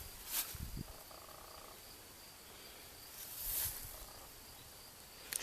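Quiet outdoor ambience: a few soft footsteps in the first second, two brief gusts of wind rustling, and a faint steady high insect trill behind.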